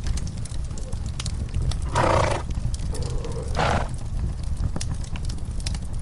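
Horse in a stall giving two short breathy snorts, about two and three and a half seconds in. Underneath runs a wood fire's steady low rumble with scattered crackling pops.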